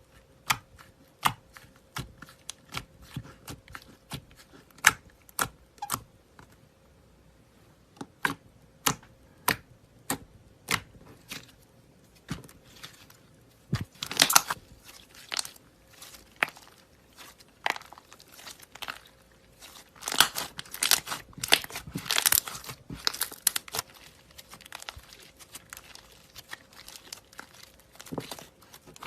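Slime being pressed, squeezed and stretched by hand, giving sharp separate clicks and pops, then denser crackling, crinkly runs about a third of the way in and again past the middle.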